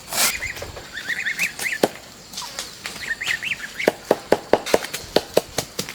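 Birds chirping in short, wavering calls in the first half, followed by a quick, even run of sharp knocks, about six a second, through the second half.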